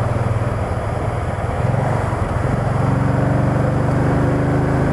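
Can-Am Spyder three-wheeled motorcycle's engine running under way with wind noise on the microphone; the engine note grows louder about a second and a half in.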